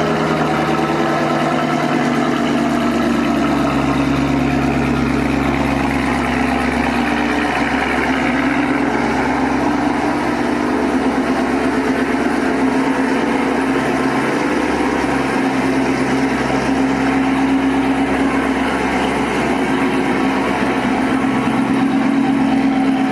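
2019 Cadillac CTS-V's supercharged 6.2-litre V8 idling steadily just after a cold start.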